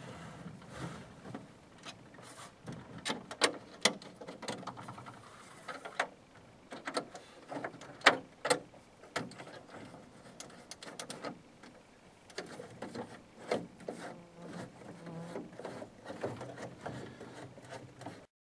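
Parts of a portable mini trimaran being fitted together by hand: irregular clicks, knocks and sliding scrapes as pieces are pushed and snapped into place, with a few sharper knocks.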